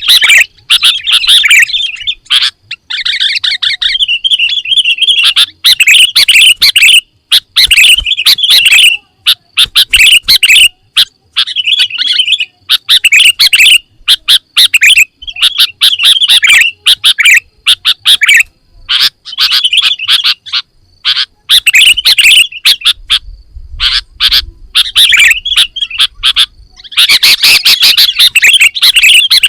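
Sooty-headed bulbul (kutilang) singing loudly: a continuous run of quick, varied chattering phrases separated by short pauses.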